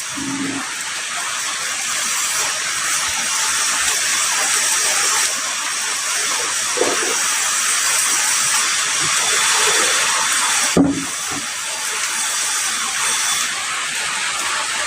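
Heavy rain falling in a steady, dense hiss, with a few brief low thuds, the plainest about two-thirds of the way through.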